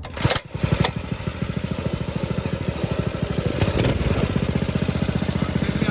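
Mini bike's small engine pull-started, catching on the first pull about half a second in, then running with a rapid, even beat that grows slightly louder.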